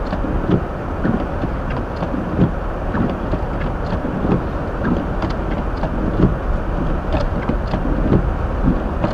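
Steady road and tyre noise inside a car's cabin driving on a snow-covered street, with the heater blower running and the windshield wipers going, plus small knocks every so often.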